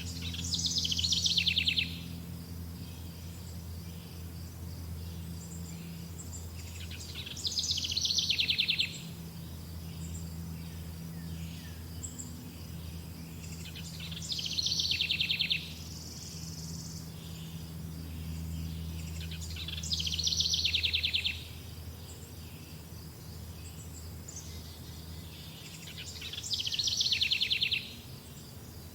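A songbird singing the same fast, downward-sweeping trilled phrase five times, each about two seconds long and about six seconds apart. Under it runs a steady high insect buzz and a low hum.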